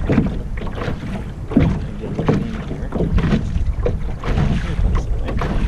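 Wind rumbling on the microphone aboard a small sailboat under way, with irregular slaps of water against the hull.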